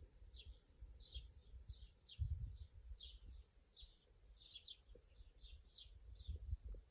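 Small birds chirping repeatedly, short high falling chirps a few times a second, over a low rumble that swells louder about two seconds in and again near the end.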